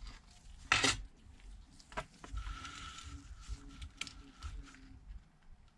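A few sharp clicks and taps of small hard tools or phone parts being handled on a workbench. The loudest comes about a second in and a second one about two seconds in, with a faint steady high tone in the middle.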